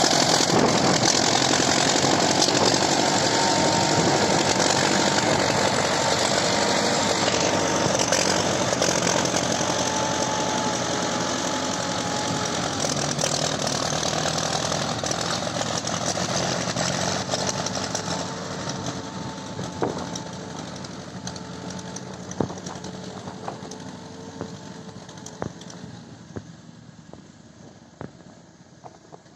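Engine of a 1977 Tientsin TN-55 wheeled tractor running steadily. It grows gradually quieter from about halfway through, with a few sharp knocks near the end.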